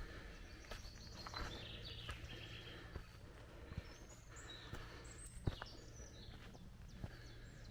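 Small songbirds chirping and twittering in woodland, with a few sharp footsteps on the trail.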